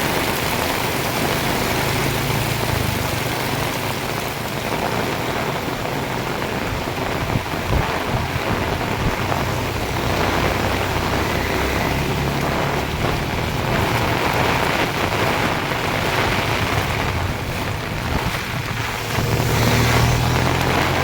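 Heavy rain pouring down in a strong wind, with gusts buffeting the microphone in low rumbles, the strongest near the end.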